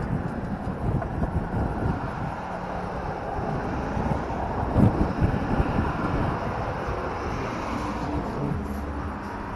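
Suzuki LS650 Savage's single-cylinder engine running on the move, mixed with wind rush, with one brief low thump about halfway through.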